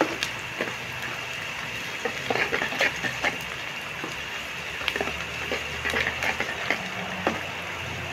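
Aromatics (sliced onion, garlic, ginger, whole spices and curry leaves) sizzling in hot cooking oil, with scattered crackles and light clicks coming in loose clusters. The tumis is being fried until it turns fragrant, the base stage of a curry.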